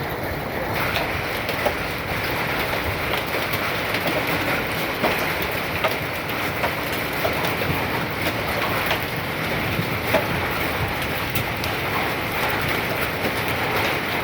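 Hailstones falling without rain: a dense, steady clatter peppered with frequent sharp impacts of individual stones.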